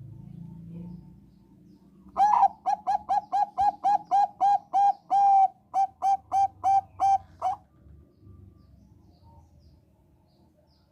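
Zebra dove (Thai 'Bangkok' perkutut) singing: a rapid run of about eighteen short, clipped coo notes, roughly three a second, starting about two seconds in and stopping about five seconds later.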